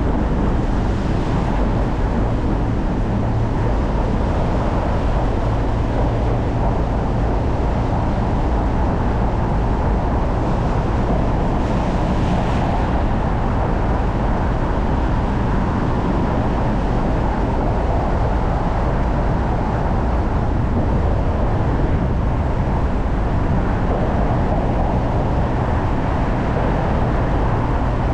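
Steady road noise of a car driving: a low rumble of tyres and engine with an even hiss above it, and two brief faint swells in the hiss, about a second in and about twelve seconds in.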